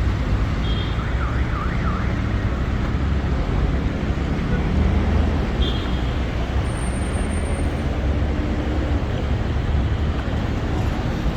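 City street traffic: vehicle engines running in a steady low rumble. A brief warbling tone comes about a second in, and short high beeps follow near the start and about six seconds in.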